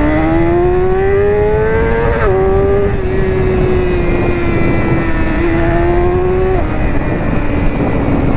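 BMW S1000RR HP4's inline-four engine with an Akrapovič titanium exhaust, heard while riding over steady wind rush. It climbs in pitch under acceleration, then drops sharply at an upshift about two seconds in. After that it eases down gradually and dips again about six and a half seconds in.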